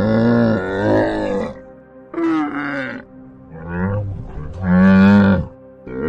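Camels calling: four loud, pitched calls of about a second each, over soft ambient music with steady held notes.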